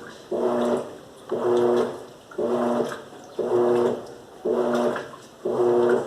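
Electrolux LAC13 top-loading washing machine agitating: the motor hums through each stroke and water sloshes, about one stroke a second, six strokes in all.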